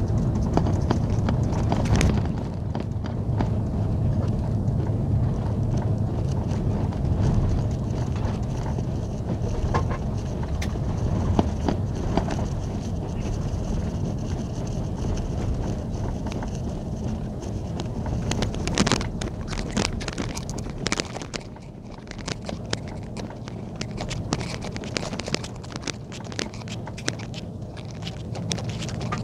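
Airbus A330-300 cabin noise: a steady low rumble with clicking and rattling throughout. The rattling is thicker in the last third, and the rumble drops in level about three-quarters of the way through.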